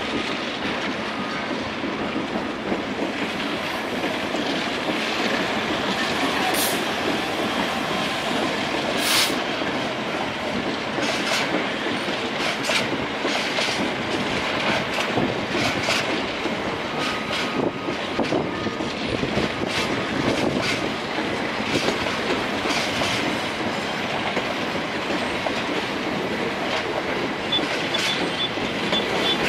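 Freight train of open box wagons rolling past at a steady pace, wheels clicking over rail joints, with two brief high wheel squeals about a quarter of the way in.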